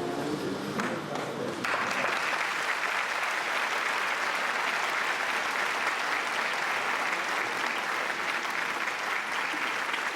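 The last held notes of a piece of music, then an audience suddenly breaks into applause a little under two seconds in and keeps clapping steadily.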